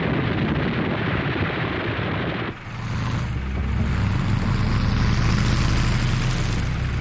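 Dubbed war-footage sound effects: a dense rushing noise that cuts off about two and a half seconds in, followed by a steady, deep engine drone of military vehicles or aircraft.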